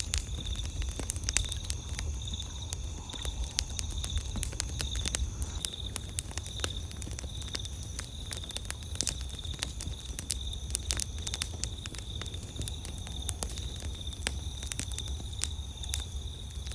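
Campfire crackling, with frequent sharp pops and snaps of burning wood. Behind it, night insects keep up a steady high, pulsing chirp.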